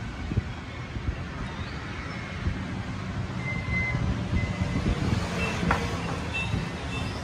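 Steady low rumble of street traffic, with small clicks of handling and a few brief high beeps, one held for about a second near the middle.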